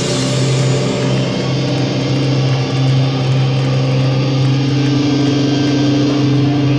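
Live hardcore band's distorted electric guitars holding a loud, steady low chord that rings on.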